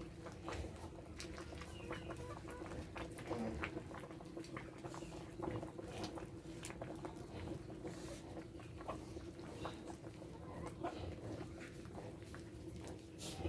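Chickens clucking, with many short knocks and taps throughout over a steady low hum.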